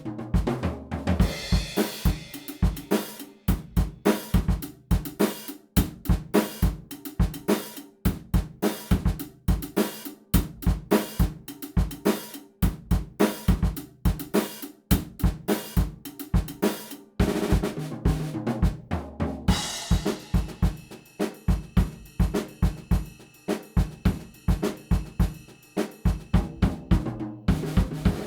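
Background music led by a drum kit: a steady beat of snare, bass drum and hi-hat, with crash cymbals ringing through the last third.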